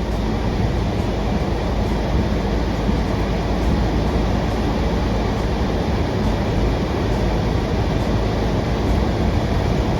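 Rain falling in a thunderstorm: a steady rushing noise with a deep rumble underneath.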